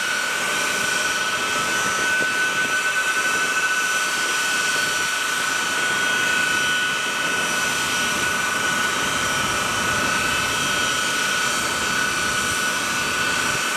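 Boeing C-17 Globemaster III's four Pratt & Whitney F117 turbofan engines running on the ground: a steady rushing jet noise with high whining tones held at one pitch.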